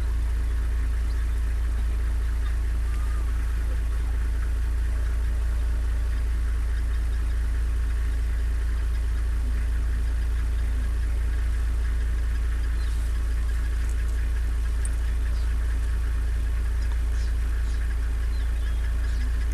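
Vehicle engine idling steadily, a constant low rumble.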